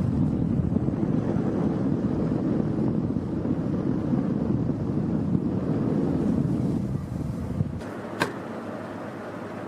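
Tower fan blowing hard, its airflow buffeting the microphone as a loud, steady low rushing that drops off near the end. A sharp click comes shortly after.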